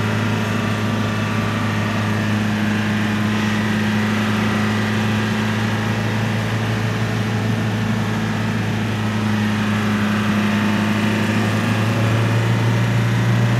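Mitsubishi T120SS pickup's engine running at a steady speed while the truck is driven, a constant drone with no rises or falls in pitch.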